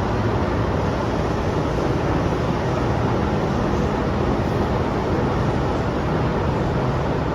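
MTR M-train electric multiple unit running, a steady rumble with the rush of wheels on track.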